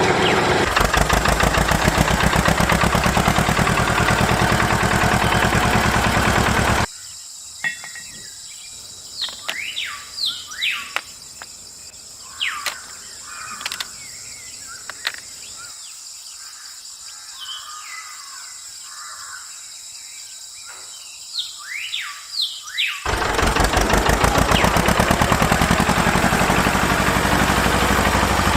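A loud, steady mechanical rattle stops about seven seconds in and starts again near the end. In the quieter stretch between, birds chirp repeatedly in short falling calls.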